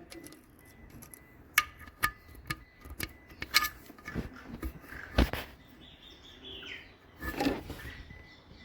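Scattered metallic clinks and knocks, a dozen or so irregular hits, some ringing briefly like tools or metal parts being handled and set down.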